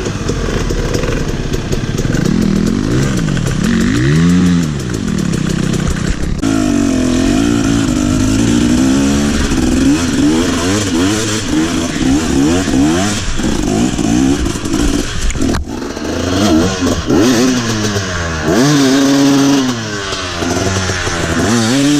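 Trail motorcycle engine running under load, its pitch repeatedly rising and falling as the throttle is opened and eased off.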